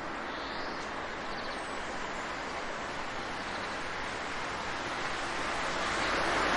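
Steady rush of water with a couple of faint, high bird chirps in the first two seconds. The water swells louder near the end.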